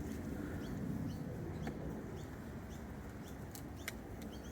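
Honeybees humming at an open hive, with small birds chirping in short, high notes repeated throughout.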